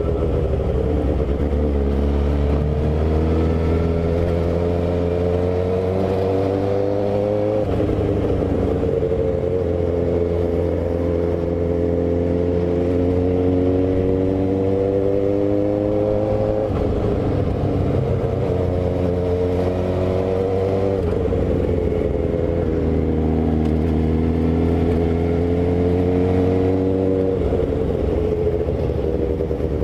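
Suzuki GSX-R750 inline-four engine heard from the rider's seat while riding. The revs climb slowly and fall back sharply three times, with a steady low rumble underneath.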